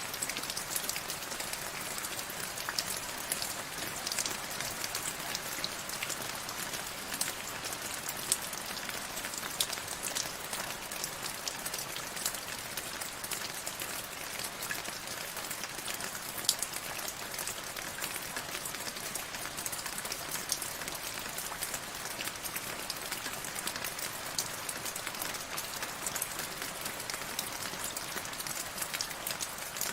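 Steady rain falling, an even hiss with many sharp individual drops ticking through it.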